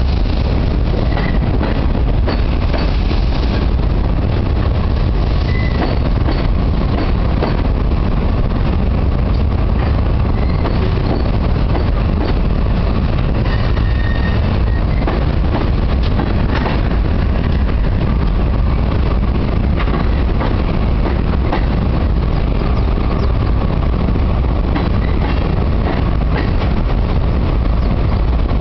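Freight train of tank cars and covered hoppers rolling across a steel truss railroad bridge: a loud, steady rumble with scattered clicks and a few brief high squeals.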